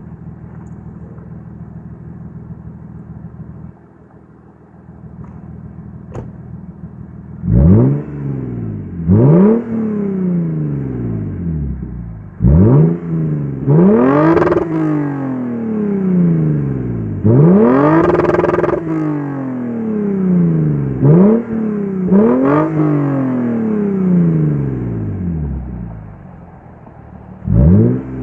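2008 Lexus IS250 AWD's 2.5-litre V6, straight-piped through a muffler delete with 3" piping, idles steadily for several seconds. It is then revved about eight times in quick blips, one held for a second or two, each rev falling back toward idle.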